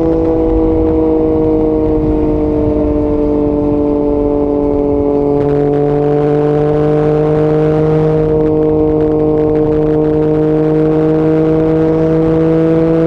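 Yamaha MT-09 three-cylinder engine with an Akrapovic exhaust, running at steady, fairly high revs while the motorcycle cruises. The pitch sags slightly and rises again with small throttle changes, over a low rush of wind.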